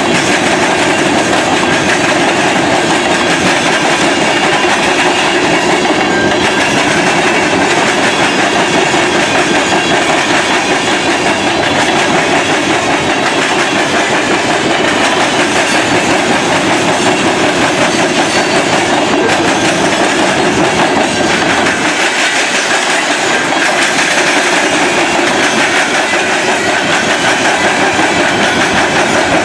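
Freight train cars rolling past, a loud, steady rumble and clatter of steel wheels over the rails.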